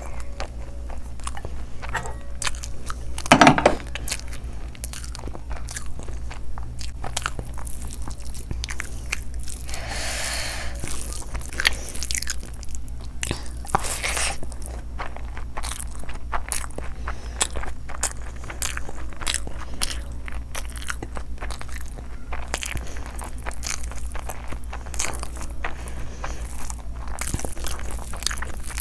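Close-miked eating of egg biryani by hand: chewing and smacking on large mouthfuls of rice, with many small sharp clicks, and fingers working through the rice. A louder burst of mouth noise comes about three and a half seconds in.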